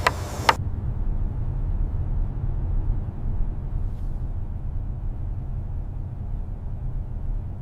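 A steady low rumble, with two sharp clicks in the first half second.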